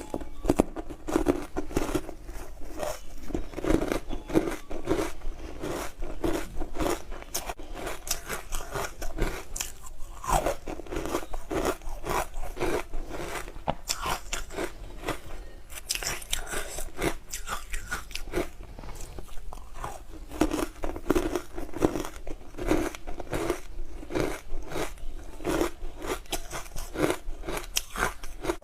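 Close-miked crunching of hard frozen matcha ice being bitten and chewed: dense sharp cracks over a steady chewing rhythm.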